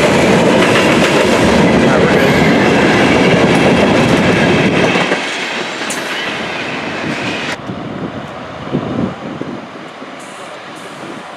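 Train passing on the rails, its wheels clattering over the track; loud for about the first five seconds, then dropping away as the train goes by. A high hiss stops abruptly a little past halfway.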